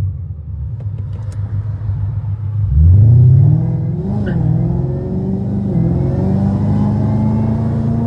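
Whipple-supercharged Mustang V8 running through headers, a resonated X-pipe and Roush mufflers: a low, steady exhaust rumble, then a quick rev near three seconds in, after which the engine note holds steady and climbs slowly in pitch.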